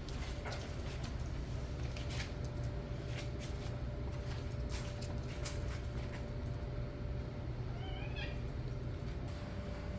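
A cat meowing once, short and wavering, about eight seconds in, over a steady low rumble of wind, with a few light clicks.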